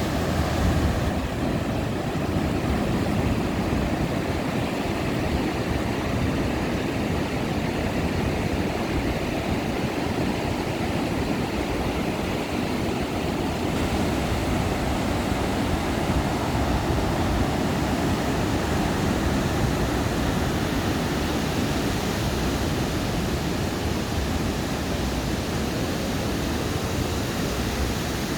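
Ocean surf breaking on a sandy beach: a steady, unbroken wash of water with a heavy low rumble and no separate wave crashes standing out.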